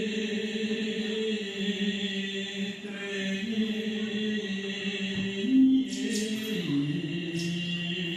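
Chanting with music: low voices hold long drawn-out notes that step to new pitches a few times, over a steady higher ringing tone, with a couple of brief sharp sounds near the end.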